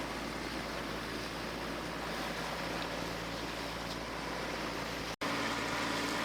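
Boat engine running steadily under a haze of wind and water noise. The sound drops out for an instant about five seconds in and resumes slightly louder.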